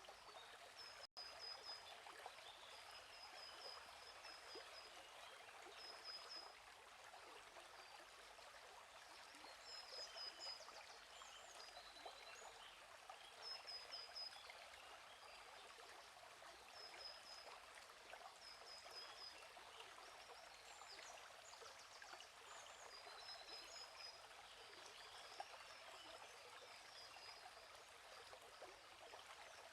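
Faint stream running with a steady trickling wash, and small birds chirping in short high-pitched runs every few seconds. The sound drops out for a split second about a second in.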